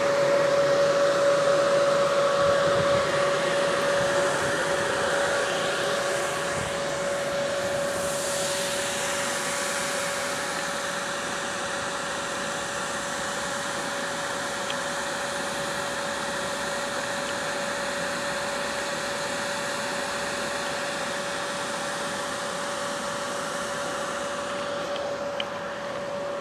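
Electric train running with its cooling blowers on: a steady fan-like rush with one high whine held over it. The sound is loudest in the first few seconds and eases off slightly after that.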